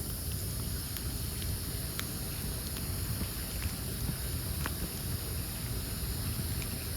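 Wood campfire burning, with a few sharp crackles and pops over a steady low rumble.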